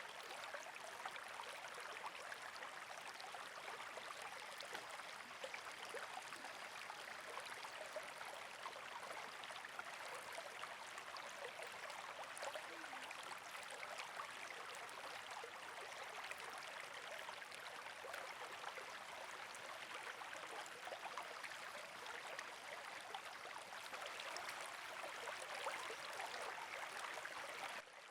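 Campfire crackling and hissing steadily, a dense run of small pops and snaps.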